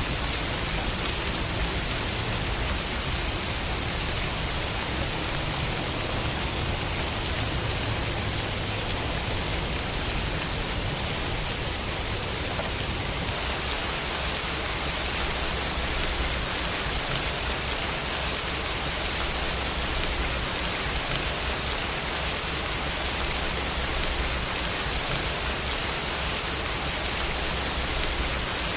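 Steady rain falling, an even, dense hiss of drops with no thunder.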